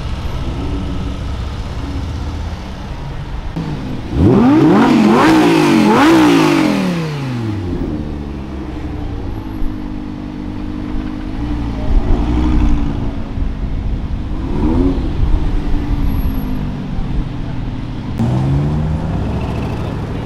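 A performance car's engine revving hard about four seconds in, its pitch climbing and dropping several times for about three seconds, then running more quietly with a few short rev rises.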